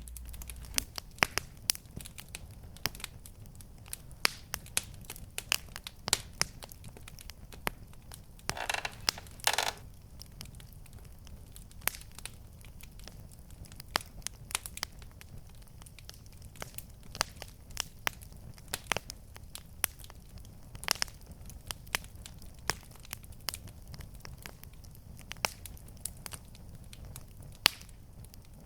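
Wood fire crackling in a fireplace: irregular sharp pops and snaps over a low, steady rumble, with a brief louder burst of rustling crackle about nine seconds in.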